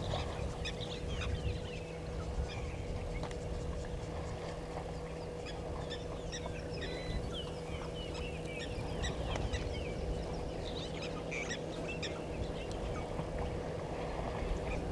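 Many short bird calls throughout, over a steady electrical hum and a low, uneven rumble.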